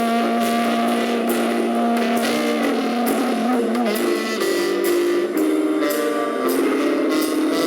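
A jazz band playing, with guitar and drum kit: held melody notes with a bend in pitch about halfway through, over a beat of drum and cymbal strokes.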